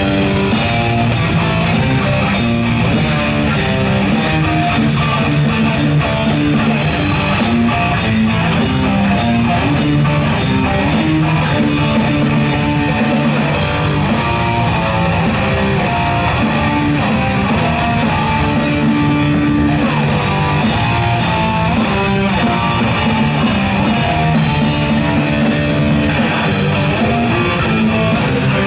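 Live metal band playing loud: electric guitars and bass over drums.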